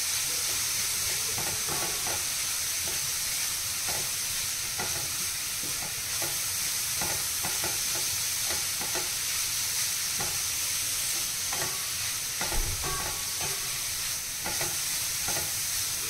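Grated carrots frying in ghee in a steel pan on low heat, sizzling steadily, while a wooden spatula stirs and scrapes them against the pan in short repeated strokes, with one louder thump about three-quarters of the way through. The carrots are being fried until they wilt and soften.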